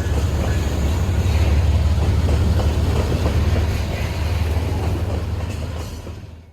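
Added sound effect of a full-size train running: a steady low rumble with rolling-wheel noise above it, fading over the last second and cutting off abruptly.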